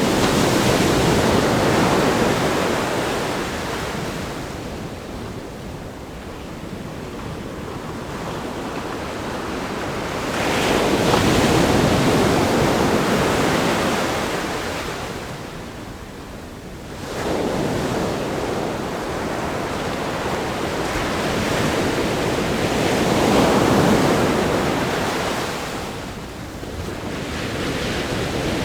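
Ocean surf breaking against a rock groin on a sandy beach: a steady wash of waves that swells and fades every several seconds, with one surge coming in suddenly about two-thirds of the way through.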